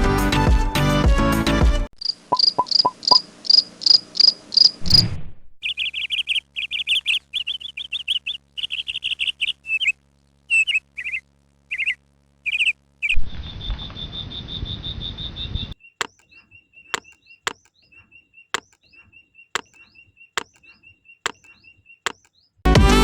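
Birds and insects calling, in changing stretches: first a string of about eight evenly spaced chirps, then warbling bird calls, then a steady high insect buzz, then rapid short cricket-like pips with sharp clicks. Background music ends about two seconds in and returns near the end.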